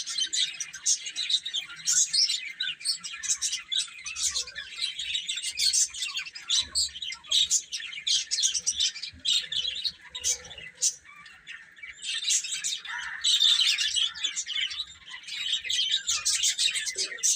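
A group of baby chicks peeping, many high-pitched chirps overlapping one another. The peeping thins out for a couple of seconds around the middle, then picks up again.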